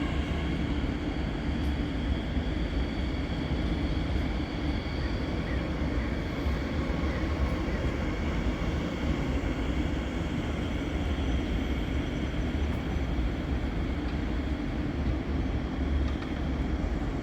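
Steady low rumble and hum of a train at a railway station platform.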